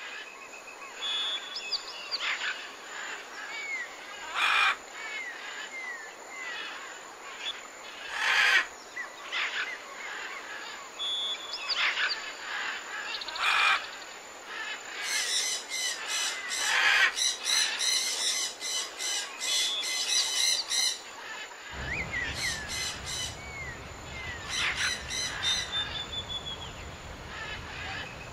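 Several birds calling and singing: repeated short chirps and gliding whistled notes, a few short rough calls, and a fast run of calls about halfway through, over a soft steady hiss. A low steady rumble comes in about three quarters of the way through.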